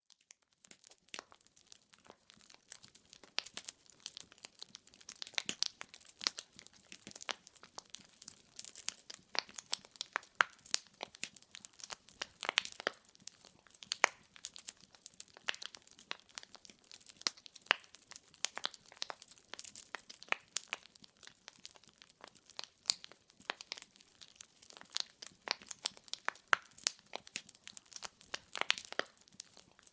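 Firewood crackling and popping in a fireplace: a steady stream of irregular sharp snaps, some louder than others, over a faint hiss of burning.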